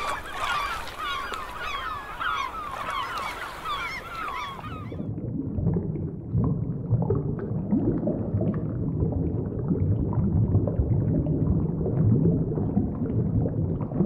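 Many seabirds calling over a hiss of sea for about five seconds. The calls then stop and a dense, low underwater rumble takes over.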